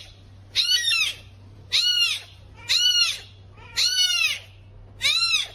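An animal calling over and over: five high-pitched cries that each rise and fall in pitch, about a second apart.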